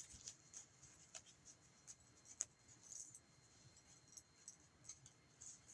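Near silence, broken by faint, scattered light clicks and soft rustles of tarot cards being handled.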